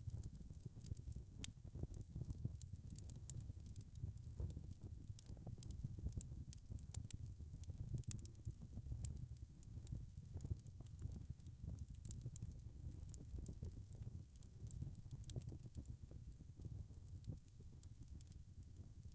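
Wood fire crackling: many quick, irregular small pops and snaps over a low, steady rumble of burning.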